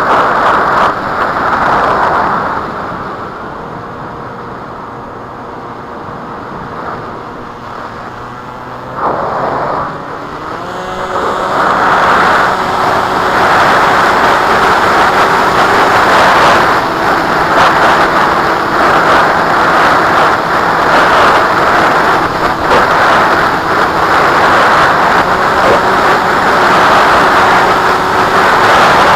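Strong wind rushing over the microphone, easing for several seconds and then building again, with the steady whine of the flying wing model's motor underneath. The motor's pitch rises about ten seconds in and then holds.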